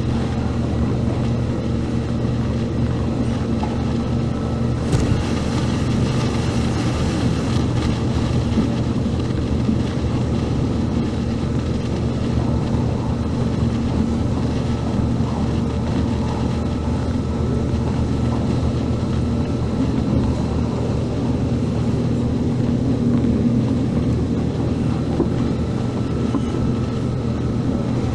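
Steady drone of an MTR K-Train, a Korean-built Hyundai Rotem electric multiple unit, heard from inside the car as its motors and onboard equipment hum evenly. A faint high whine joins near the end.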